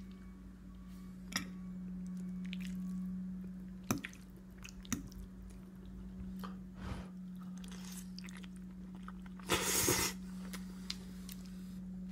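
A toddler chewing pasta with her fingers in her mouth: scattered soft wet mouth clicks and smacks, with a louder short noisy burst about ten seconds in.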